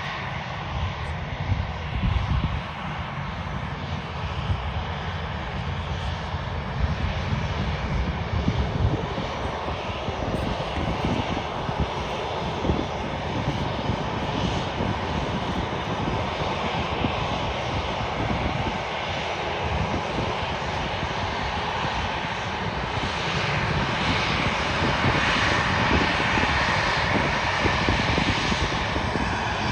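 Jet airliner engines running loud with a deep rumble. The sound grows steadily louder through the second half.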